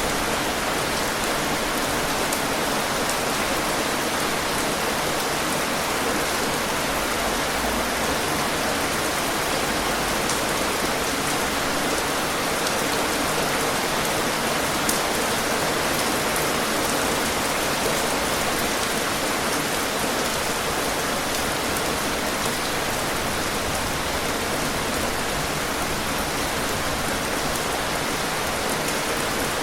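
Steady rain falling, a continuous hiss of rainfall with many small drop ticks.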